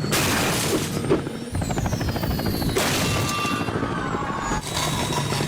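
Loud action sound effects over music: several booms and crashes, a falling whistle, and a quick rapid chopping in between.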